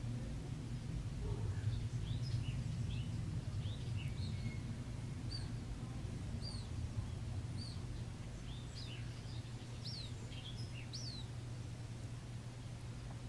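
Birds chirping: many short, high chirps, most falling in pitch, coming more often in the second half, over a steady low hum.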